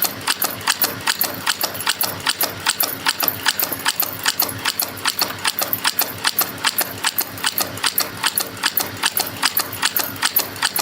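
CNC strip and wire forming machine running in production, forming small spring clips from 0.4 mm metal strip, with a fast, evenly repeating metallic clicking from its forming strokes.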